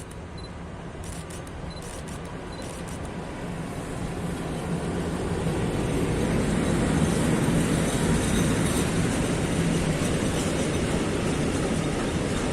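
Freight train of coal wagons hauled by a 201Eo electric locomotive running past. It grows louder over the first six seconds, then holds at a steady level.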